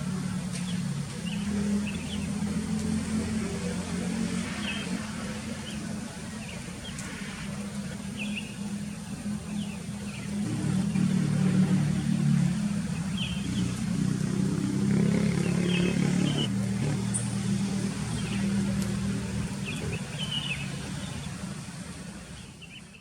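Sooty-headed bulbuls giving short, scattered chirps over the steady drone of a motor engine, which grows louder through the middle and then eases.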